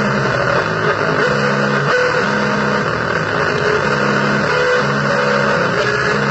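Harsh noise music: a loud, dense distorted wash with a low held chord that pulses on and off about once a second.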